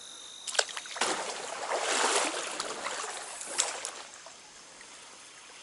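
Stream water splashing and sloshing for about two and a half seconds, with a sharp click just before it and another as it ends.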